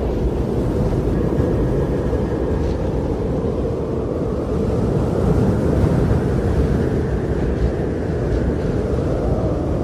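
Wind blowing in a steady low rush with no pauses, swelling a little about halfway through and easing near the end.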